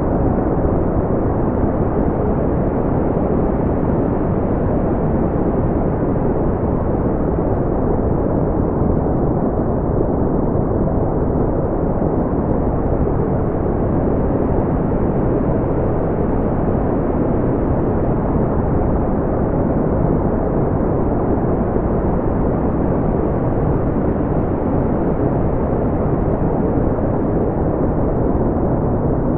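Deep brown noise: a steady, even rumbling hiss weighted toward the low end, with almost nothing above the upper mids.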